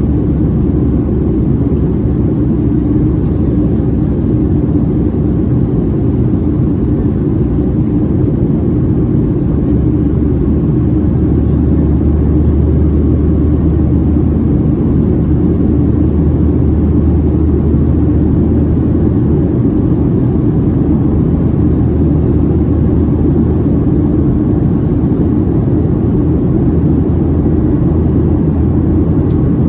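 Cabin noise of a Boeing 737-700 in flight: its CFM56-7B engines and the airflow over the fuselage give a steady low rumble with a low hum running through it, the hum growing a little stronger about a third of the way in.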